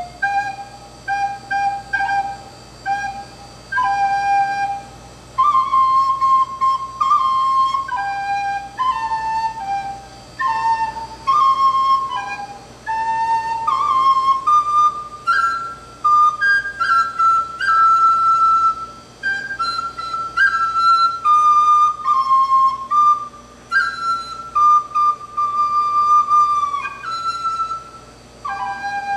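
Khlui, the Thai vertical duct flute, playing a slow solo melody one note at a time. The notes are held, broken by short pauses between phrases, and some end in a downward slide.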